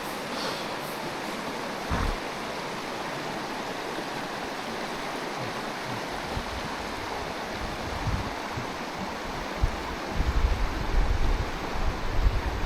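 Mountain stream running over rocks, a steady even rush, with a single knock about two seconds in. From about ten seconds in, wind gusts buffet the microphone with a low rumble.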